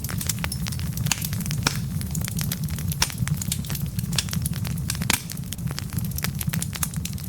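Wood logs burning in a fireplace, crackling with many irregular sharp pops over a steady low rumble of the flames.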